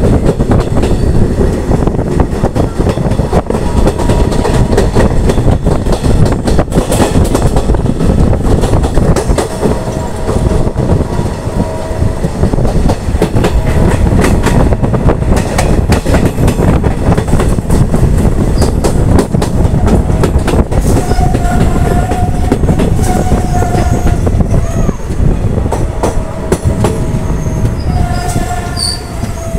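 Passenger train running along the track, heard from an open coach window: a steady rumble of wheels on rail with clickety-clack over the rail joints and rushing air. In the last several seconds short higher tones come and go over the rumble.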